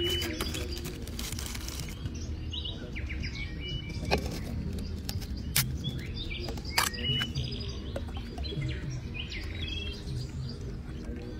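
Birds chirping in short scattered calls, with a few sharp clicks about four, five and a half, and seven seconds in.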